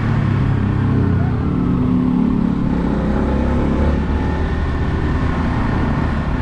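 Motorcycle engine running while riding, its note shifting up and down a little.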